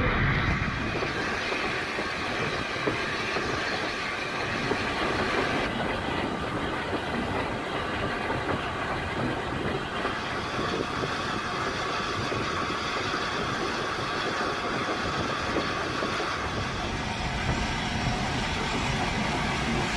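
Heritage steam train's carriages running along the track, the wheels clicking over the rail joints, heard from an open carriage window. The running noise changes abruptly a few times where the film is cut.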